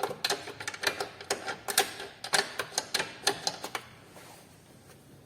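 Hand tools clicking and knocking quickly and irregularly, typical of a wrench or ratchet working on suspension bolts. The clicking stops about four seconds in.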